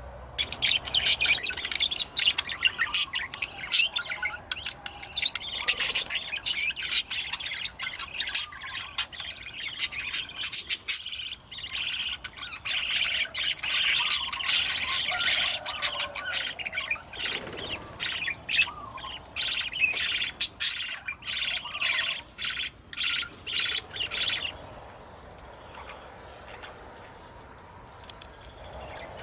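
Budgerigars chattering and squawking in an aviary: a dense run of rapid, high, scratchy calls that stops abruptly near the end.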